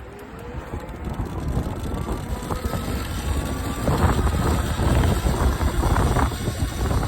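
Vehicle engine climbing steadily in pitch as it accelerates, with wind buffeting the microphone and growing louder from about four seconds in.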